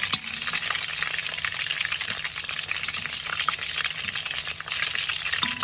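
Chicken wings deep-frying in hot oil: a steady, dense crackling sizzle.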